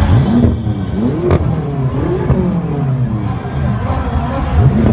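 Supercar engines being revved in quick blips, the pitch shooting up and falling back several times, with revs from more than one car overlapping. A single sharp crack comes about a second in.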